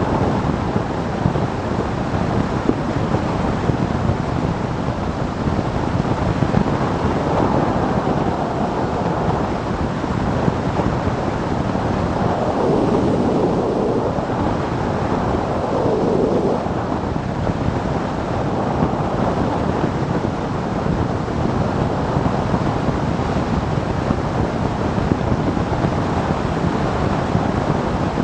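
Motorcycle ridden at road speed: wind rushing and buffeting over the microphone, with engine and road noise underneath. The sound swells briefly twice about halfway through.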